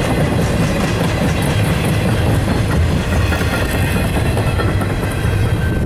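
Double-stack intermodal container cars rolling past close by: a steady, loud rumble of steel wheels on the rails with repeated clicking as the wheels pass over the track.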